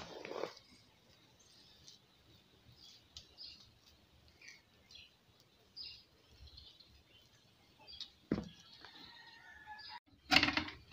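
Faint bird chirps in the background, scattered and brief. A single knock about eight seconds in, then louder clattering near the end.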